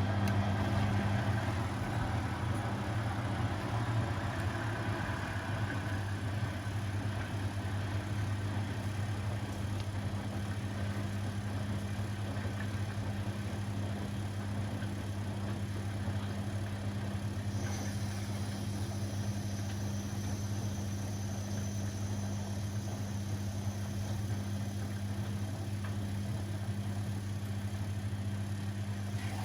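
Laundry appliances running: a steady motor hum with no change in pace, and a faint high whine that joins about two-thirds of the way through.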